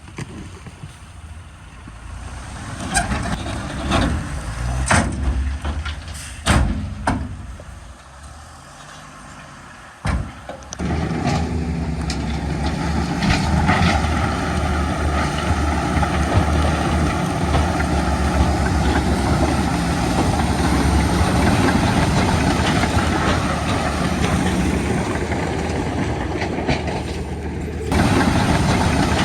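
Heavy diesel earthmoving machinery at work: scattered knocks and clanks over a low engine sound, then about eleven seconds in a big diesel engine starts running loud and steady under load.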